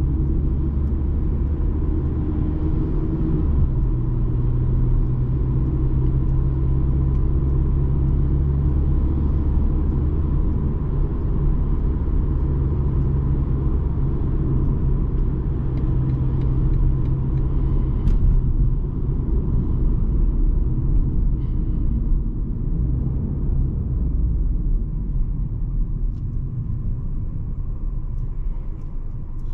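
BMW 220d xDrive's four-cylinder diesel engine and tyres on the road while driving: a steady low drone and rumble. The engine note shifts about three and a half seconds in and quiets over the last few seconds.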